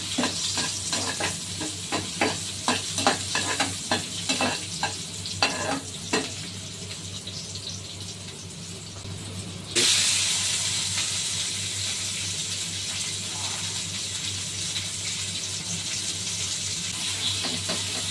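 Onion, garlic and bay leaves sizzling in oil in a frying pan, with a metal spatula scraping and tapping the pan in quick short strokes through the first six seconds. Just before ten seconds in, the sizzle jumps suddenly louder and hissier, with red and green chilies now in the oil, and stays that way.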